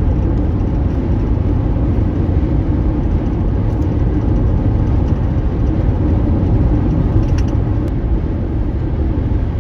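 Steady low rumble of a car driving on a dusty unpaved road, tyre and engine noise heard from inside the cabin, with a few faint ticks.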